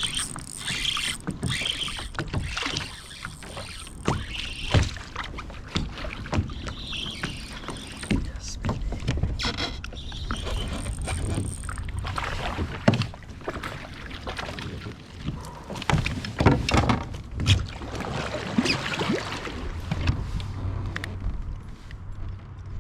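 Water slapping and knocking against the hull of a small fishing boat on choppy water, in a continuous wash with irregular sharp knocks throughout.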